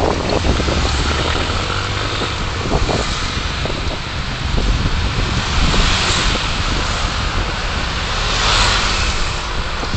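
Steady road and traffic noise of a car being driven, swelling twice, about six and about eight and a half seconds in.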